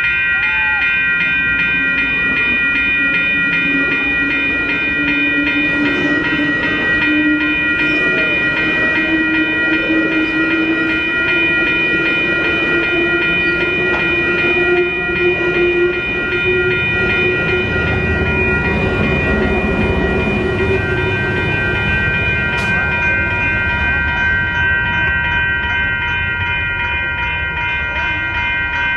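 Commuter train passing a level crossing: a crossing signal bell rings steadily over the rumble of the passing train's bilevel coaches, with an engine tone slowly rising in pitch through the first two-thirds.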